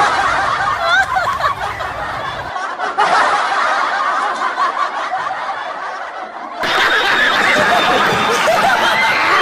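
Several people snickering and chuckling together, a laugh-track style sound effect, with abrupt cuts between stretches of laughter.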